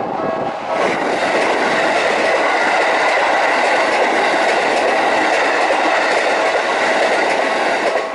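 A Keikyu train passing over a level crossing, its wheel and rail noise swelling about a second in, staying loud and dropping away at the end. The crossing's electronic warning bell keeps ringing underneath.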